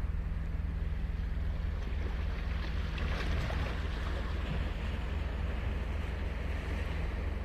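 Ocean surf on a sandy beach: a steady low rumble with a wash of hiss that swells about three seconds in as a wave breaks and runs up.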